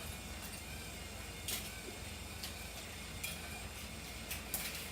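A few scattered light clicks and taps of small toy cars and plastic track pieces being handled, over a low steady hum.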